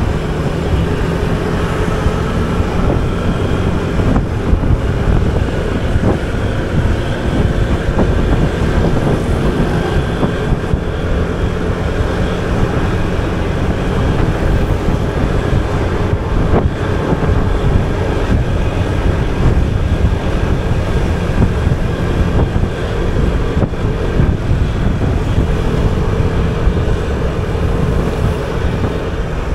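Wind buffeting the microphone over the steady running of a motor scooter being ridden, its engine a faint even hum under the wind noise.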